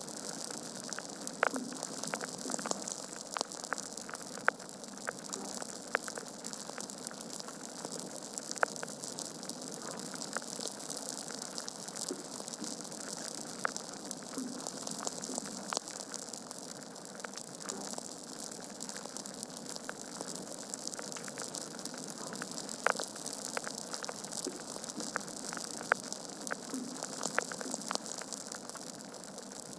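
Wood fire burning in a fireplace: a steady hiss with irregular crackles and sharp pops from the burning logs.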